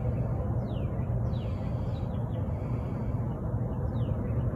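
Birds calling: a run of short, high calls that slide downward in pitch, several a second in loose groups, over a steady low rumble.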